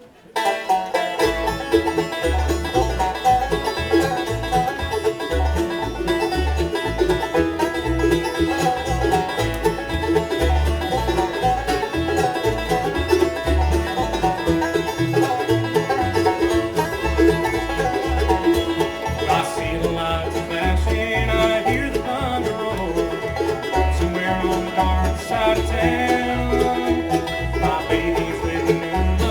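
Bluegrass band playing live on banjo, guitar, mandolin, fiddle and bass, with a steady bass beat. The band comes in suddenly just after the start, and there is no singing.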